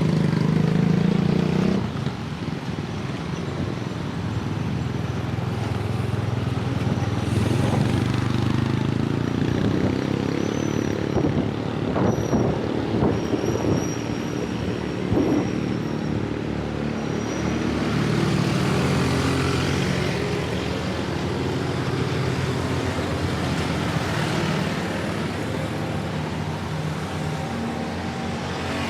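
Road traffic: car and truck engines running close by in a steady din, with a few sharp knocks around the middle.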